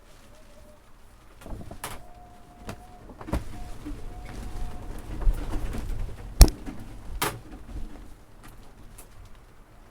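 A pigeon cooing, with scattered knocks and rattles; the loudest is a sharp knock about six and a half seconds in.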